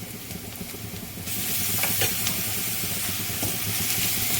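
Onions and ginger-garlic paste frying in hot oil in a kadhai: a steady sizzle that turns suddenly louder and hissier about a second in, with a few light taps of the spoon against the pan while stirring.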